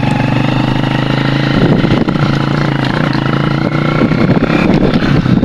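Motorcycle engine running steadily in low gear while being ridden over a rough, bumpy dirt road, heard from the rider's seat. The engine note wavers about one and a half seconds in and again near the end.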